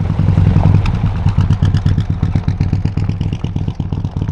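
Loud engine running with rapid, even exhaust pulses, from one of the cars at a car meet.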